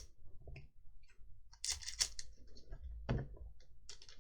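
Paper trading cards being handled: short rustles and clicks as the cards slide against each other, in a few bursts about two and three seconds in.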